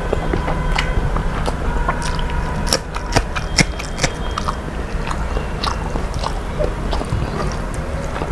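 A person chewing and biting food close to the microphone, with many short, irregular wet clicks and smacks of the mouth over a steady low hum.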